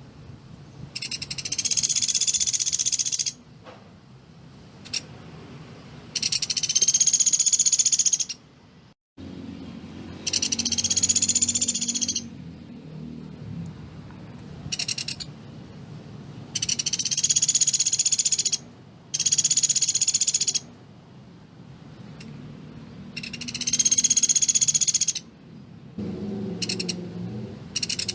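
Pelatuk beras, a small woodpecker, giving rapid-fire high rattling trills of about two seconds each, repeated after pauses of a few seconds, with a few shorter bursts in between.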